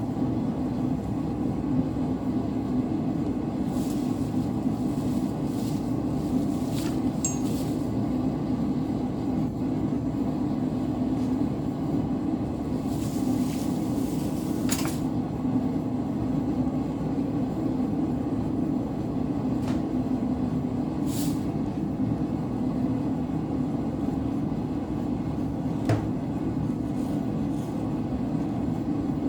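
A blacksmith's forge running with a steady, even roar while steel reheats in it, with a few faint metal clinks now and then.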